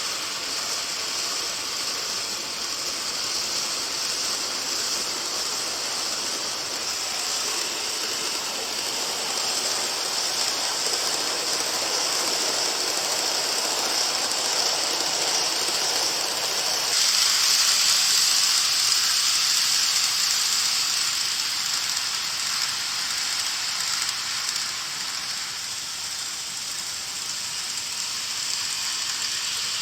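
N gauge model train (Micro Ace Izukyu 2100 series) running on its track: a steady high whirring hiss of motor and wheels on rail, building gradually, then changing abruptly about halfway through, when the deeper part of the sound drops away and the high hiss grows louder.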